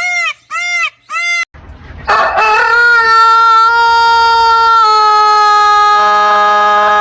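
Three short calls rising and falling in pitch, then after a brief pause a rooster's crow drawn out into one very long held note that steps slightly lower in pitch about five seconds in and does not end.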